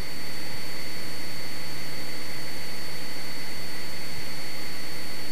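Cessna 172's piston engine and propeller droning steadily in flight, heard inside the cabin, with a thin steady high whine over it.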